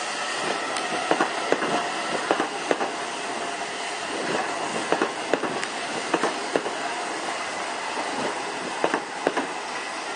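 DART electric commuter train running past along the platform: a steady rumble of wheels on rails, broken by a string of sharp, irregular clicks as the wheels pass over rail joints and pointwork.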